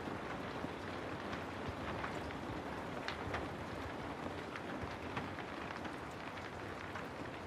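Steady rain falling on a house, a constant hiss with many separate drops pattering and ticking as they strike.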